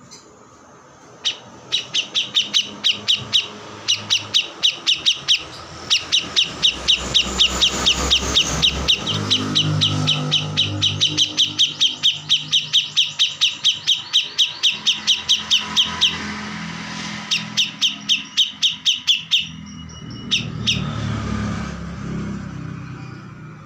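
A kores songbird singing loudly in long trills of rapid, evenly repeated high notes, in four runs with short breaks, the longest lasting about ten seconds. From about nine seconds in a low vehicle engine hum runs underneath.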